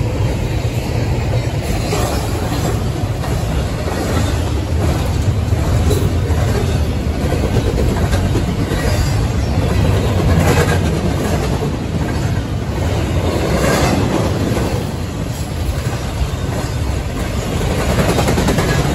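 Double-stack intermodal freight train rolling past, its well cars' steel wheels running on the rails with a steady low rumble and occasional clacks over rail joints.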